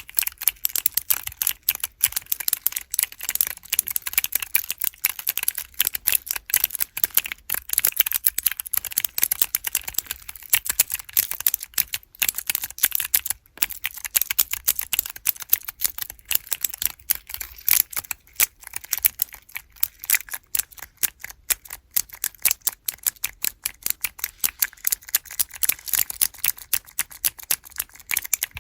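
Mechanical keyboard keys with blue switches on small keychain keyboard blocks, pressed over and over in quick, uneven runs of sharp clicks.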